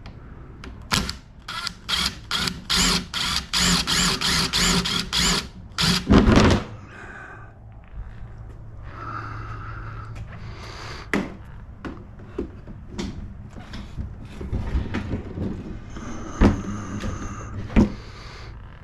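Woodworking on a workbench: a run of rapid, evenly spaced rasping strokes, about three a second for some five seconds, then scattered knocks and clatter with a short high whine near the end.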